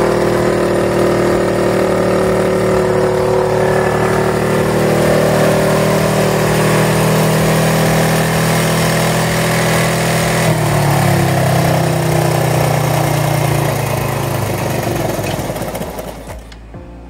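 Suzuki Intruder motorcycle engine running in gear on its stand, driving the rear wheel through a Hencam belt-drive kit. The note changes about ten seconds in and the sound dies down near the end.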